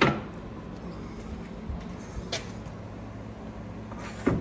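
A steady low hum with three sharp knocks: a loud one at the start, a lighter one about two seconds in, and another near the end.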